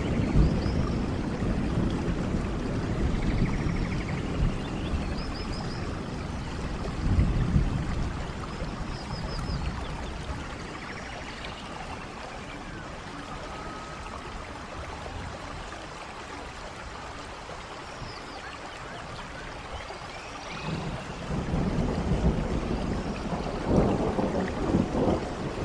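Steady rain with low rumbles that swell at the start, ease off through the middle, and build again for the last few seconds.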